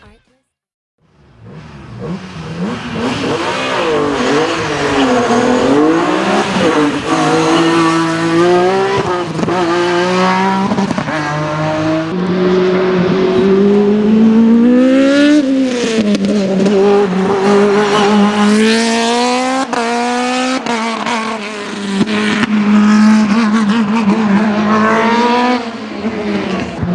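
Hill-climb race car engine under hard acceleration, its pitch climbing and dropping sharply at each gear change, then falling and rising again through the bends. It comes in after about a second of silence and stays loud throughout.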